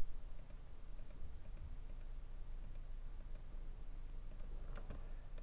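Scattered faint computer mouse clicks over a low steady hum, with a brief soft rustle near the end.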